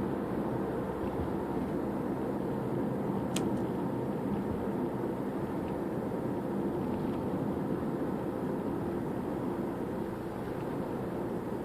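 2013 Toyota RAV4 on the move: steady engine and road noise, with a single sharp click a little over three seconds in.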